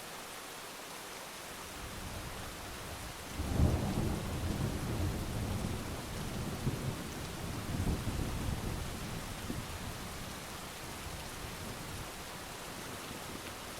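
Steady heavy rain with a long roll of thunder that builds about two seconds in, peaks a second or so later, and rumbles away over several seconds.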